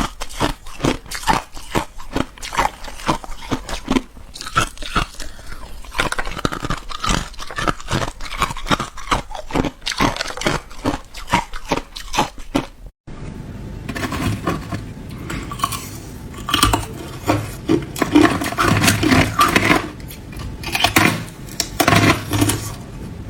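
Ice being bitten and chewed close to the microphone: a rapid run of sharp, crackling crunches. About halfway through the sound cuts out for a moment, then the crunching resumes denser and fuller.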